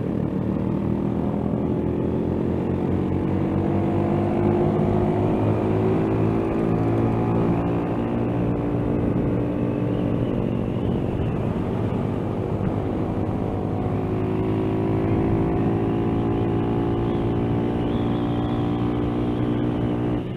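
Motorcycle engine running under way, its pitch climbing steadily as the bike accelerates, easing off around the middle and then climbing again.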